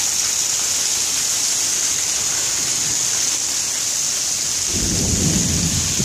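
Heavy rain pouring down steadily in a severe thunderstorm, a dense hiss of a downpour. About five seconds in, a low rumble of thunder comes in under the rain.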